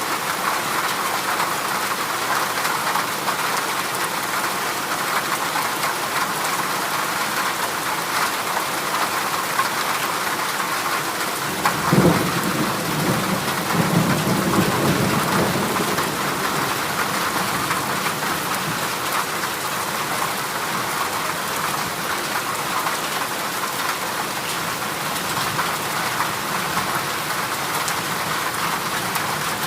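Heavy rain drumming steadily on a corrugated zinc (galvanised iron) roof. About twelve seconds in, a sharp thunderclap is followed by a low rumble that dies away over a few seconds.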